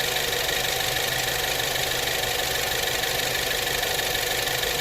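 2015 Ford Fusion's 2.0-litre turbocharged four-cylinder engine idling steadily, running on a newly fitted alternator and battery.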